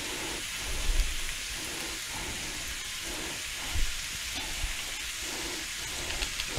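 Ground beef and minced onion sizzling steadily in a frying pan, a fine even hiss. A few soft low bumps sound about a second in and near four seconds.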